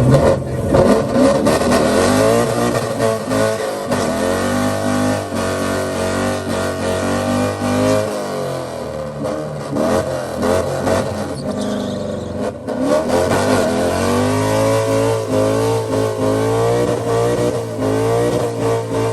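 Lifted pickup truck's engine revving hard and held at high revs during a burnout, its pitch dipping and climbing again several times, over a steady hiss.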